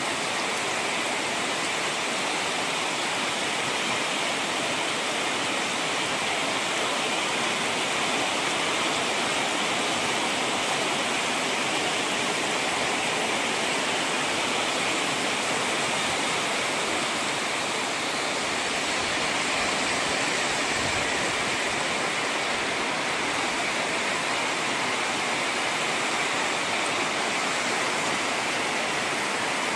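Steady rainfall, an even hiss without breaks or distinct drops.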